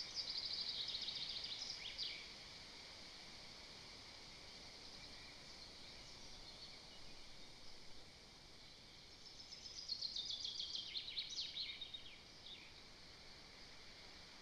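A small songbird in the surrounding forest sings twice, each time a fast, high trill of about two seconds that falls in pitch and ends in a quick flourish. The first comes at the start, the second about ten seconds in, over a steady faint hiss.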